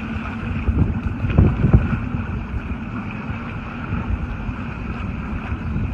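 Wind buffeting the microphone over a steady low hum, with a few heavier low thumps about one and a half seconds in.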